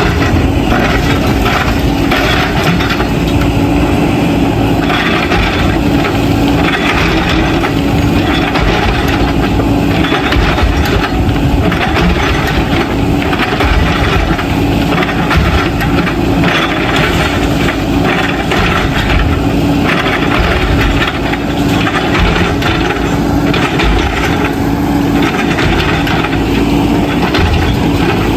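JCB 3DX backhoe loader's diesel engine running steadily, with irregular clattering and scraping of broken bricks and stones as the machine moves rubble.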